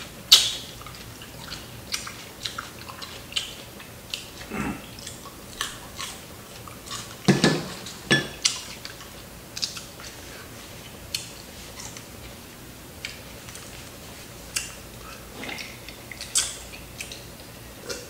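Close-miked chewing of crispy fried chicken: irregular crunches, wet mouth clicks and lip smacks, with a few louder crunches spread through.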